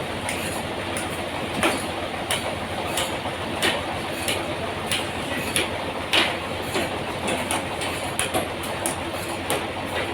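Sawmill machinery running on a large trembesi log: a steady mechanical noise with irregular sharp clicks and knocks, roughly one or two a second.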